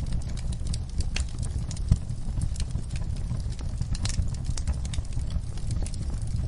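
Wood fire crackling in a fireplace: many sharp pops and snaps over a steady low rumble of the flames, with one louder pop about two seconds in.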